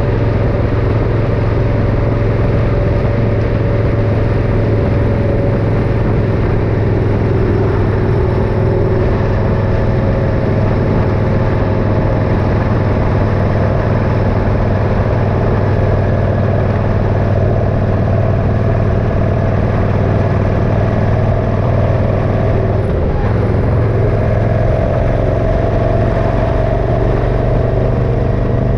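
Motorcycle engine running steadily on the move, a constant drone under a rushing noise, its note shifting slightly about two-thirds of the way through.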